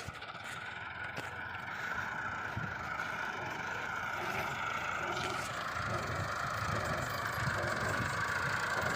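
Engine of a heavy farm machine running steadily, growing gradually louder.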